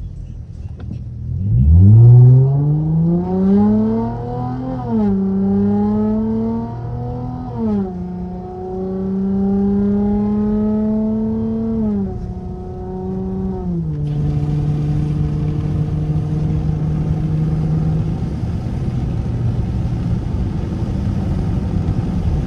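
Straight-piped car exhaust under hard acceleration: the engine note climbs sharply about a second and a half in, then drops and climbs again at upshifts around five and eight seconds. It eases off near twelve and fourteen seconds and settles into a steady cruise, with an even hiss of tyres on the wet road from then on.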